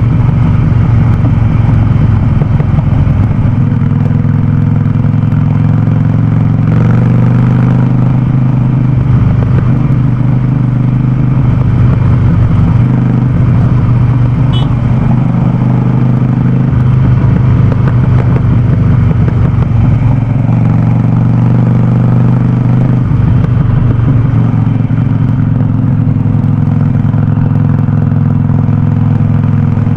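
Harley-Davidson Sportster Forty-Eight's V-twin running through a loud aftermarket Vance & Hines exhaust while riding, its exhaust note rising and falling with engine speed several times.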